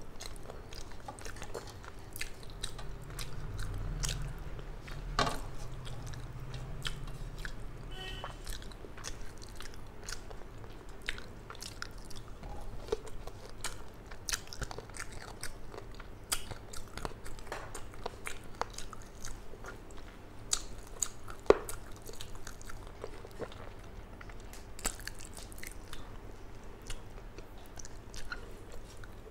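Close-up eating sounds of a person chewing hilsa fish and rice taken by hand: wet chewing and lip-smacking with many small mouth clicks.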